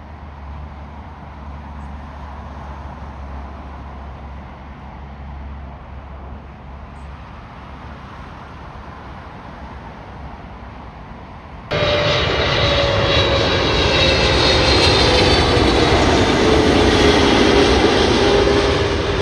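Jet airliner engines: a low, distant rumble that changes abruptly, about two-thirds of the way through, to a much louder close pass with several whining tones sliding slowly down in pitch.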